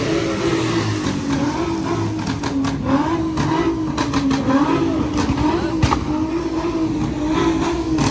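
Ford Mustang engine held at high revs, its pitch wavering slightly up and down as the throttle is worked, with a few sharp cracks.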